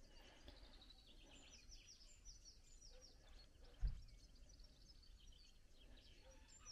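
Faint bird song over near silence: repeated runs of short, high chirps, each falling quickly in pitch. One dull low thump comes about four seconds in.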